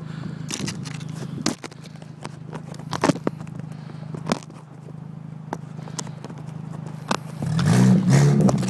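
Volkswagen Jetta's engine running steadily at low revs, with scattered sharp clicks and crunches over it, then revved hard and loud near the end as the car is driven over a snowbank.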